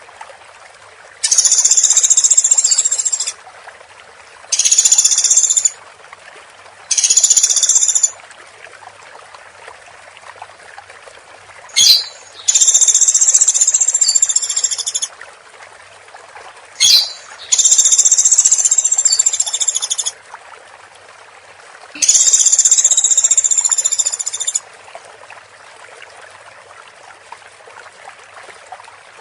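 Woodpecker giving high-pitched, dense rattling calls in seven bursts of one to two and a half seconds each, with two short sharp clicks between them, over a steady background hiss.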